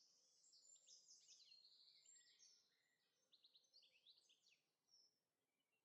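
Very faint birdsong: many quick high chirps and short falling trills from small birds.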